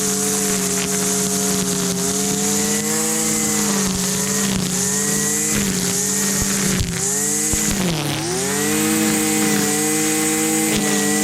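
Husqvarna 326LD string trimmer's small two-stroke engine running steadily at high speed. About seven seconds in its pitch sags briefly, then climbs back up and holds.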